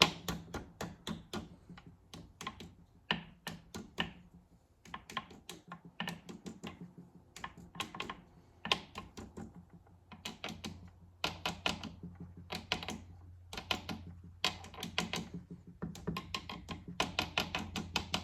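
Quick series of light hammer taps driving the new speedometer drive gear onto the Ford Toploader four-speed transmission's shaft. The taps come several a second in clusters with short pauses between them.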